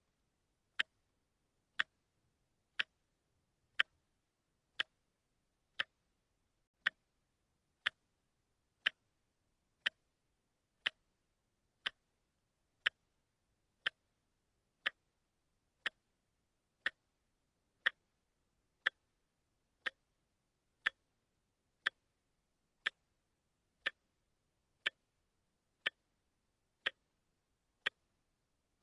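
Watch ticking steadily, one sharp tick a second.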